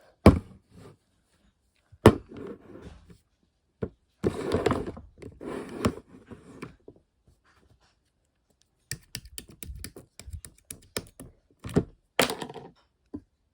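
Slime being squished and pressed by hand. There are sharp pops near the start and about two seconds in, a longer squelching stretch from about four to seven seconds, then a rapid run of small clicks and pops.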